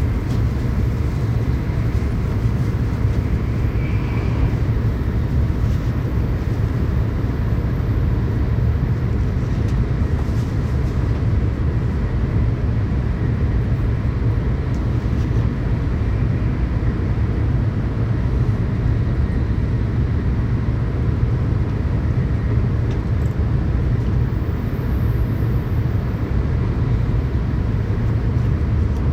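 Tokaido Shinkansen train running at speed, heard inside the passenger cabin: a steady, loud low rumble of running and wheel noise that holds even throughout.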